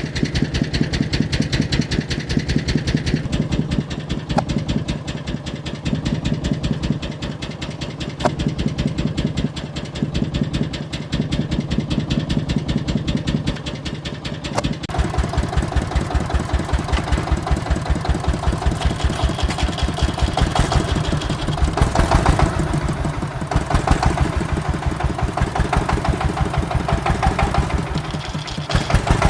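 Engine of an agricultural vehicle running with a rapid, even chugging. About halfway through the sound changes and grows fuller, then swells and eases a few times as the load varies.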